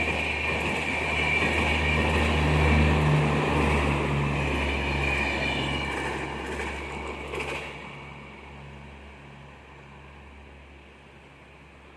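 Passenger express train running on the rails, with a low rumble and a high metallic ringing from the wheels, fading away about eight seconds in as the train moves off.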